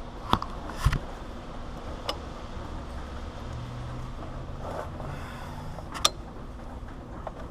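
A few sharp metal clicks and knocks, spread out over several seconds, from a wrench working at the power steering pressure line fitting on the pump, over a steady low background hum.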